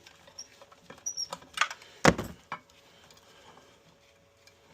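Light clicks and taps of boiler parts being handled during reassembly, with one sharp knock about two seconds in.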